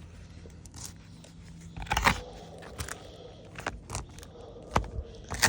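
Scattered scrapes, crunches and clicks of movement on asphalt roof shingles, with the loudest scrape about two seconds in and sharp clicks near the end.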